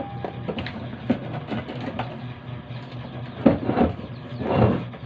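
Washing machine motor humming steadily after being plugged in for a test, with scattered clicks and knocks and two louder rattling knocks about three and a half seconds in and near the end.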